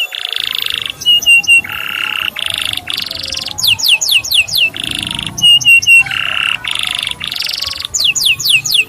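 Male canary singing: runs of quick downward-sweeping whistles alternating with buzzy trills and short clipped notes. The same song phrase repeats about every four and a half seconds.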